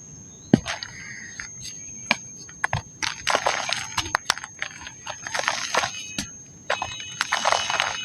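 Dry pink mud being crumbled, giving irregular crisp crunches and sharp snaps in clusters.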